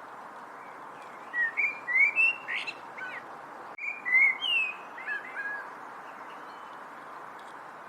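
A songbird sings two short phrases of quick chirping, gliding whistled notes, one about a second in and another near the middle, over a steady background hiss.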